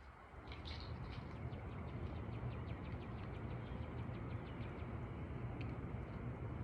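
Small birds chirping in a quick run of short, high notes, with a steady low rumble underneath.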